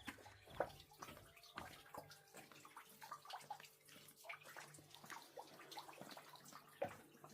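Faint, irregular splashing and dripping of water, made up of many small clicks and splashes.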